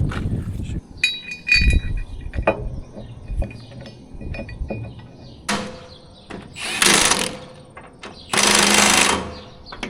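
Short bursts of a power tool, two of them in the second half, after a few metallic clinks and knocks of tools on steel.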